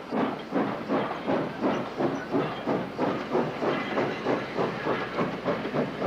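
Steam locomotive working steadily, its exhaust chuffing in an even beat of about three puffs a second.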